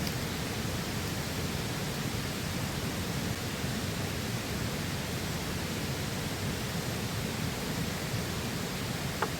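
Steady rush of a flowing river, with one faint click about nine seconds in.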